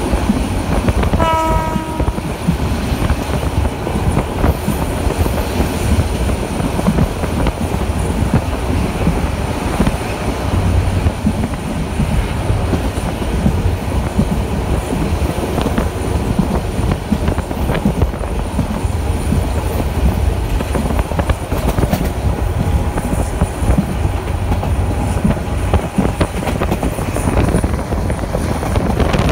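Passenger train running on the track, heard from an open window or door of the carriage: a steady loud rumble of the wheels and carriage mixed with rushing air. About a second in comes a short, pitched tone.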